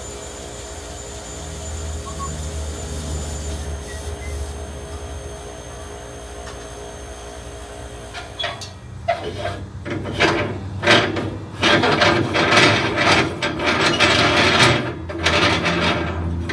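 A steady hum, then from about eight seconds in a run of irregular scraping and rubbing noises from propane tanks being handled and unhooked from the trailer.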